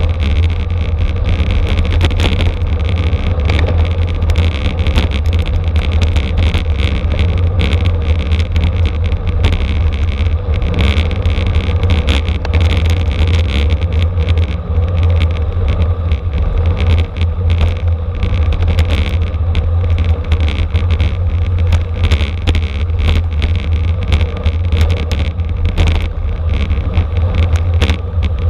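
Wind buffeting a bike-mounted camera's microphone at racing speed: a loud, steady low rumble, with frequent small knocks and rattles running through it.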